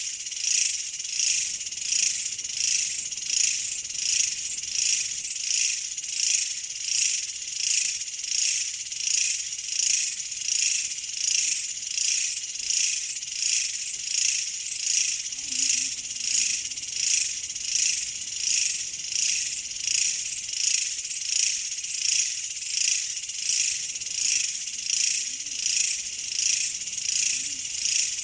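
A steady chorus of insects, high-pitched and pulsing evenly about three times every two seconds.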